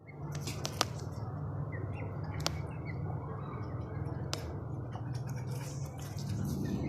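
Small birds chirping in short, scattered calls, with a few sharp clicks over a steady low hum.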